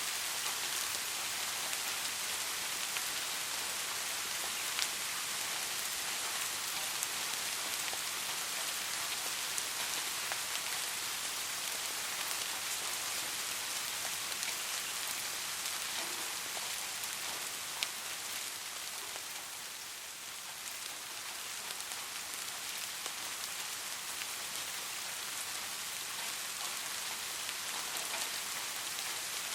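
Steady soft rain falling, an even hiss with scattered individual drops ticking on a surface, easing off slightly about two thirds of the way through.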